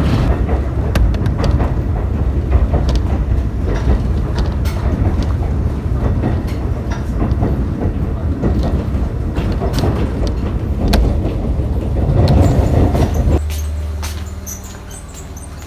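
Kōnan Railway Ōwani Line train running: a steady rumble with the clickety-clack of rail joints. About thirteen seconds in it gives way abruptly to a quieter, steady low hum.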